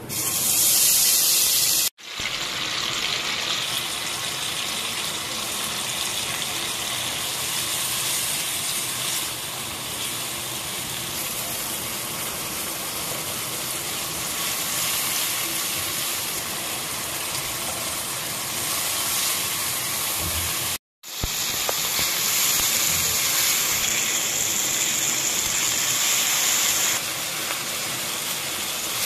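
Ginger-garlic paste hitting hot oil in a wok with a loud sizzle, then chopped capsicum and onion sizzling steadily as they are stir-fried. The sizzle cuts out abruptly twice.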